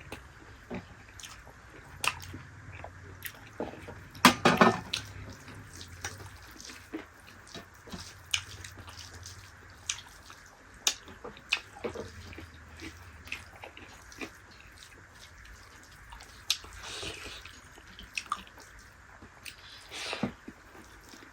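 Close-up eating sounds from a meal of dal bhat with dried yak meat: wet chewing, lip smacks and many short clicks. A louder cluster of bites comes about four seconds in, with further louder bursts near the end.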